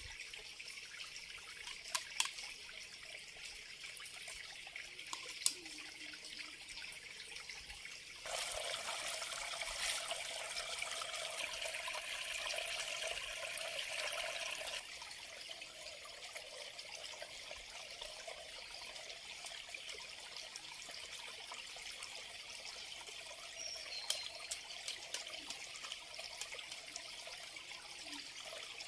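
Water trickling, with a louder stretch of running or pouring water for about six seconds in the middle, and a few sharp clicks.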